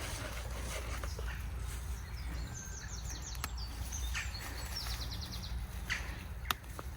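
Small songbirds singing outdoors: two quick trills of rapidly repeated high notes, about two and a half seconds in and again about five seconds in, over a steady low background rumble with a few sharp clicks.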